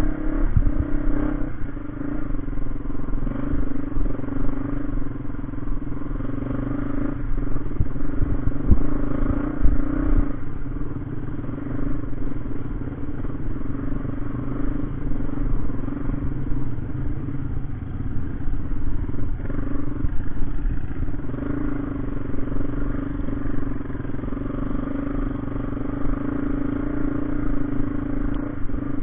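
Motorcycle engine running steadily while under way, a constant drone over a low rumble, with a few brief knocks about a second in and again near nine seconds.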